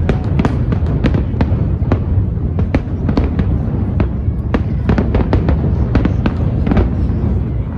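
Fireworks display: a dense, irregular barrage of sharp cracks and bangs over a steady deep rumble from the shells bursting.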